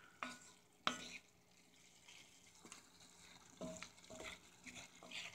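Faint sizzling of pepper steak (beef, onions and bell peppers) cooking in a pan, with a sharp knock about a second in. Near the end a wooden spoon stirs and scrapes through the food.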